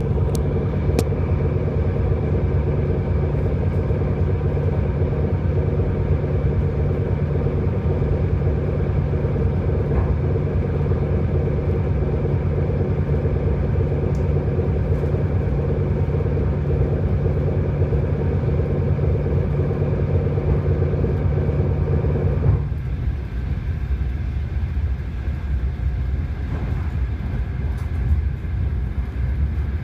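Electric commuter train (elektrichka) running, heard from inside the carriage: a steady rumble of wheels on rails with a hum of several steady tones. About three-quarters of the way through the hum stops abruptly, leaving the rumble of the running train.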